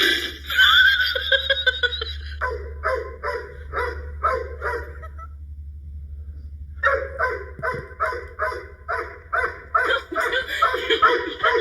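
A dog barking in quick, short, repeated barks, about three a second. The barks come in two runs with a pause of over a second between them.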